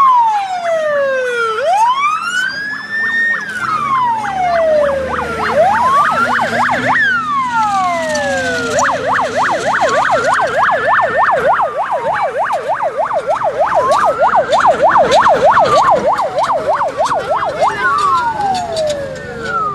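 Emergency vehicle siren sounding close as the vehicle passes, wailing slowly up and down, switching to a fast yelp from about nine seconds in, then back to the slow wail near the end.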